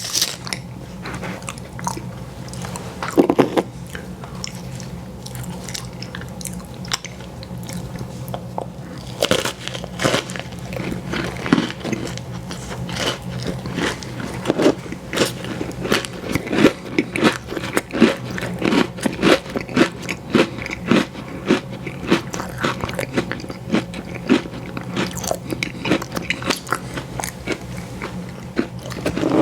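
Close-miked eating of an ice cream sandwich: bites and chewing, heard as quick clicks and smacks that grow much denser about a third of the way in, over a steady low hum.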